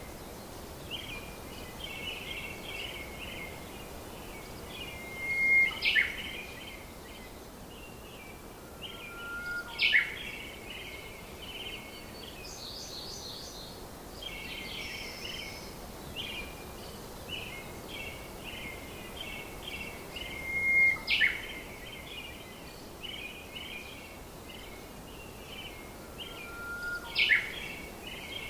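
Birds chirping continuously in quick high trills, with a loud whistle that sweeps sharply downward four times. The same passage seems to repeat about every fifteen seconds, as if looped.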